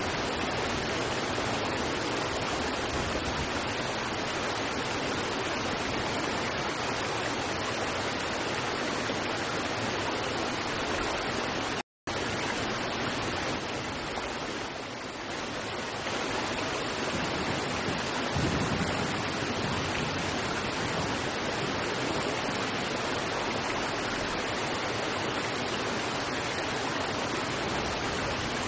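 River water rushing steadily over rocks, an even hiss-like roar. It cuts out to silence for a split second about twelve seconds in, then resumes.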